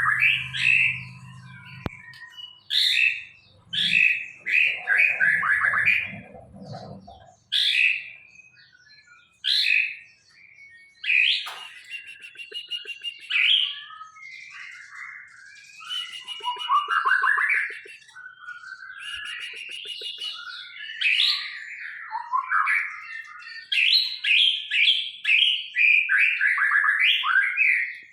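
A murai, a Copsychus songbird, singing loud, varied phrases of clear whistles, sweeping notes and quick runs of chattering notes, separated by short pauses.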